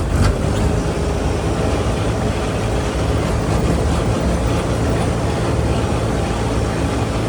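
Tractor engine running steadily while under way, a low even drone with road and rattle noise on top.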